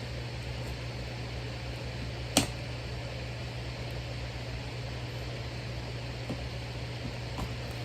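Steady machine hum with an even hiss, the kind of background a fan or air conditioner gives; one sharp click about two and a half seconds in, and a couple of faint ticks near the end.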